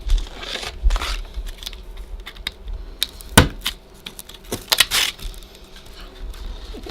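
A sheetrock patch being handled and fitted into a hole in a drywall wall: gypsum and paper scraping against the edges of the hole, with scattered sharp clicks and knocks, the loudest about halfway through.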